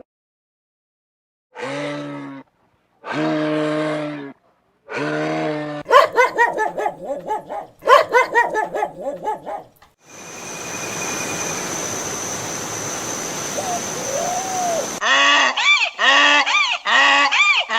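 Different animal calls, one kind after another: three separate drawn-out calls, then a rapid string of calls, then a steady hiss about five seconds long, then quick repeated calls, about three a second, near the end.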